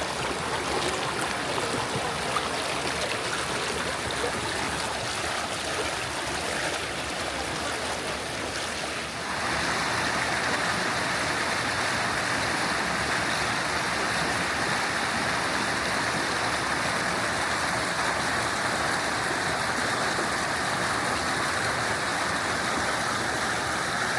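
Mountain stream rushing steadily over rocky cascades. About nine seconds in, the sound changes suddenly to a louder, brighter rush of water.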